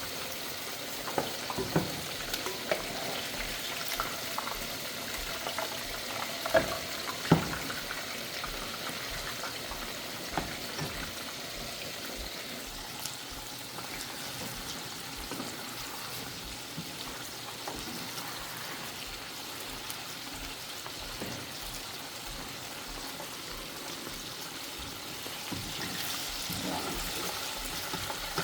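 Chicken frying in hot oil, a steady sizzle. Several sharp clicks or pops stand out in the first few seconds.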